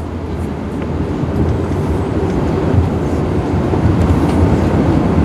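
Airbus A380 cabin noise on the ground after landing: a steady low rumble of the engines and the landing gear rolling over the tarmac, growing slightly louder.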